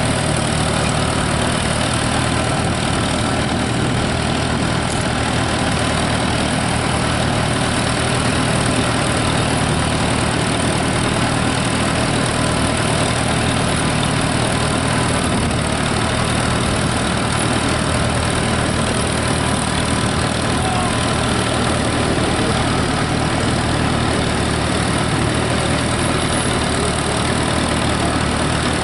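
Tractor engine running steadily at an even speed, with no revving up or down.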